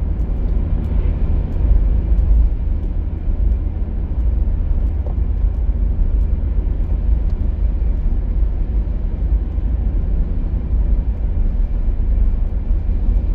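Steady low rumble of a car driving, heard from inside the cabin: engine and tyre road noise with no changes in pace.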